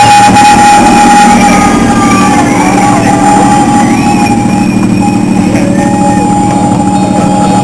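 Miniature zoo train running, with a steady high whine, while riders scream and yell in wavering, rising and falling cries.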